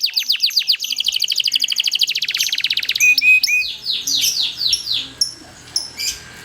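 Domestic canary singing: quick falling notes run into a long, fast trill, the 'long roll' prized by canary keepers. The trill breaks up into varied chirps and short whistled notes in the second half.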